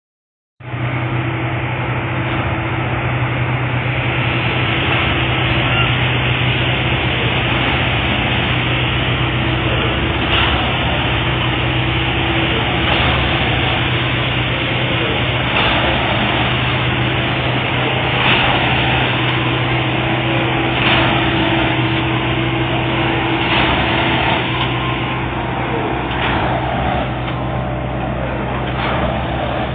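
Plasser & Theurer 09-32 CSM Duomatic tamping machine working the track: a steady diesel drone with a short sharp hiss or clunk repeating about every two and a half seconds from about ten seconds in, in time with its tamping cycle.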